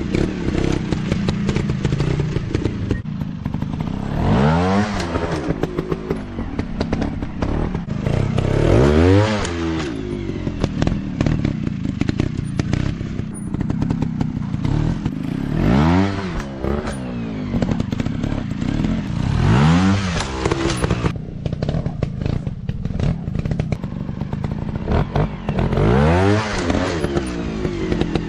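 Dirt bike engines running, with the pitch rising and falling back about five times as the throttle is opened and closed.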